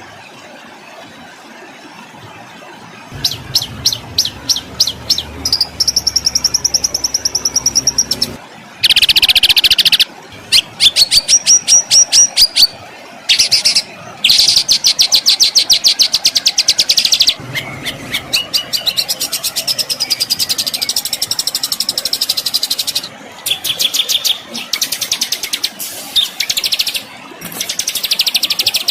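A recorded songbird singing the harsh, rapid-fire 'tembakan' phrases used to train caged songbirds: fast strings of sharp repeated notes and rattling trills with brief pauses, plus a few held high whistles, starting about three seconds in after faint hiss.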